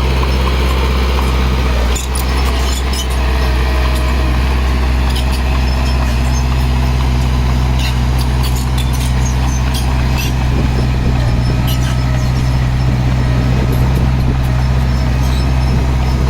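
Heavy diesel engine of earthmoving machinery running steadily with a deep, even hum, with scattered sharp clicks over it.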